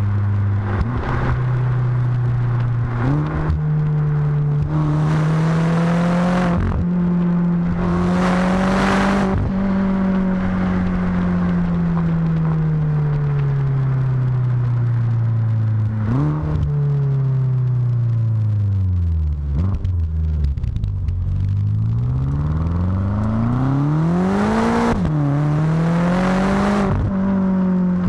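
BMW F10 M5's twin-turbo V8 running through a Supersprint rear-muffler exhaust while driving. The engine pitch climbs and falls with several quick gear changes, sinks low in a long slowdown past the middle, then climbs again near the end.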